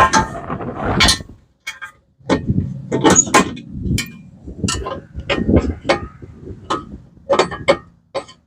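Metal clinks and clanks from hand tools and car parts being handled during repair work: a string of about a dozen sharp knocks, some ringing briefly, after a denser rattling noise that stops about a second in.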